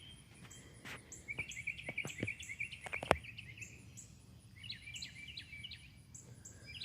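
Small songbirds chirping in quick twittering runs, over a faint high buzz that pulses about twice a second. Several sharp clicks or taps sound among them, the loudest about three seconds in.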